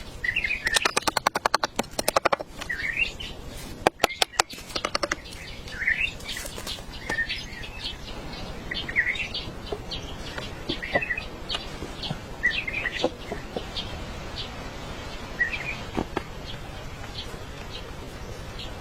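Small birds chirping, short calls repeating about once a second, over a steady hiss. Bursts of rapid clicking come in the first few seconds.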